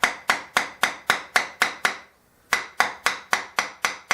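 A thin putty knife being tapped into a paper-and-glue joint to split a waste block from a wooden bowl: quick, even sharp taps, about four a second, with a brief pause about two seconds in before the tapping resumes.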